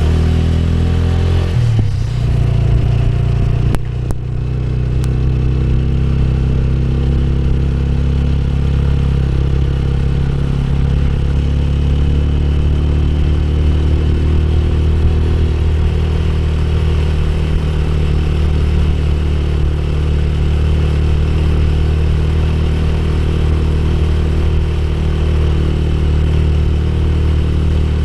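Motorcycle engine running steadily under way, its pitch shifting about two seconds in.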